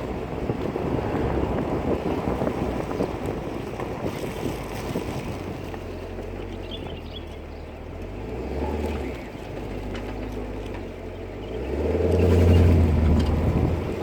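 Chevrolet Camaro on the move: road and tyre rumble with the engine note swelling twice, briefly about two-thirds of the way in and more strongly near the end. No distinct clunk stands out above the rumble.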